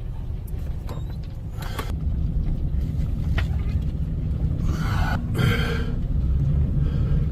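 Steady low rumble of a car driving, heard from inside the cabin, with a few short bursts of hiss about two seconds in and again past the middle.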